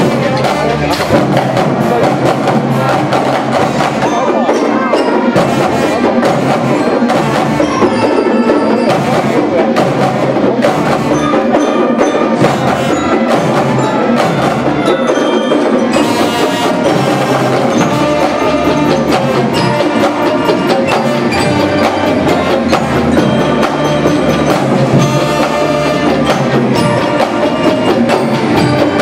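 School band performing a piece live: pitched instruments with mallet percussion and sharp wood-block strokes, playing steadily throughout.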